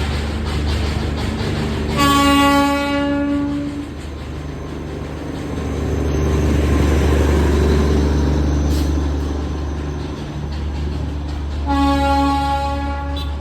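Darjeeling Himalayan Railway toy train locomotive sounding its whistle twice, each a steady single-note blast of about a second and a half, the second near the end. Under it a locomotive runs with a steady low rumble, swelling louder in the middle.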